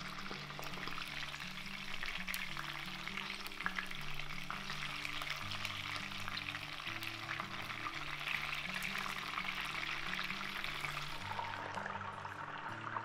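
Chicken legs shallow-frying in hot oil in a pan: a steady, dense sizzle full of small crackles and pops as the skin browns.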